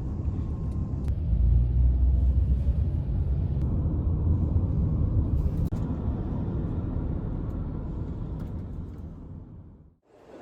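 Low, steady vehicle rumble that builds over the first couple of seconds, slowly fades, and cuts off suddenly near the end.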